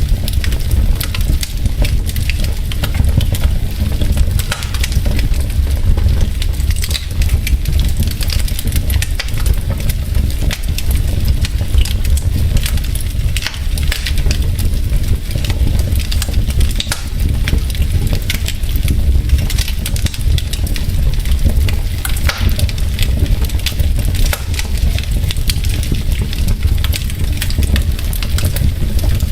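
Wood fire burning in a fireplace, the logs crackling with many small, irregular pops over a steady low rumble of the flames.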